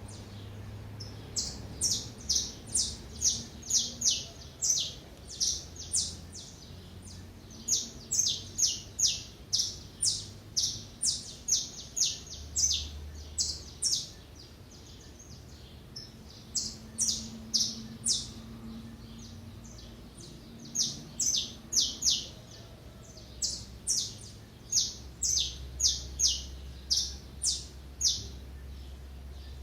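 Small songbirds chirping: short, high chirps repeated about two a second in runs, with a lull of a couple of seconds around the middle.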